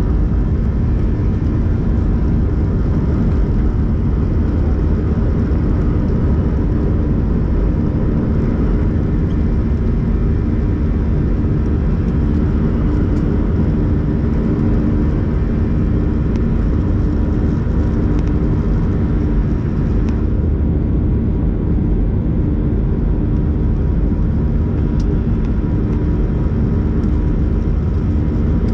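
Steady engine and airflow noise inside the cabin of an Airbus A321-111 with CFM56 turbofans, a constant loud rumble with a low steady hum and no change in pitch.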